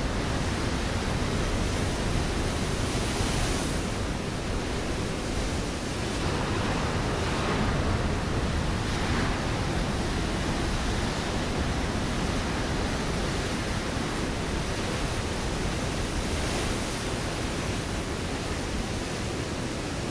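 Ocean waves breaking on a rocky shore: a continuous rush of surf with a few gentle swells as individual waves break.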